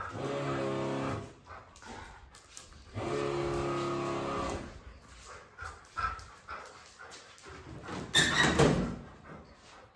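A dog whining in two long, drawn-out cries, followed by a short, loud noisy burst about eight seconds in.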